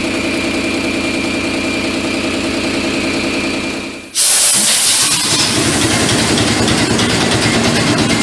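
A large old engine running steadily, fading out about four seconds in; then a sudden loud blast of hissing air as another big old engine starts and settles into running.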